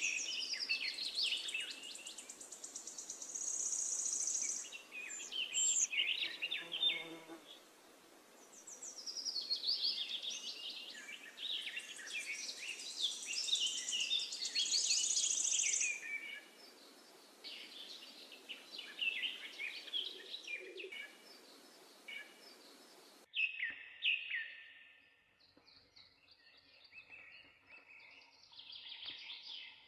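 Many birds chirping and calling in quick, overlapping phrases, with a high buzzing twice, over a steady hiss that cuts off abruptly about three-quarters of the way through.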